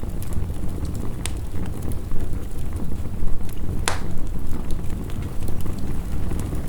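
Wood fire crackling, with scattered sharp pops, the loudest about four seconds in, over a steady low rush of heavy rain.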